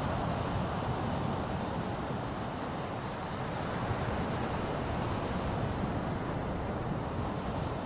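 Ocean waves washing on the shore, a steady rushing surf.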